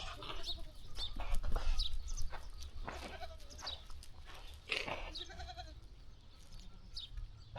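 A flock of sheep bleating now and then, several short calls overlapping, with rustling and small knocks from the animals moving and grazing.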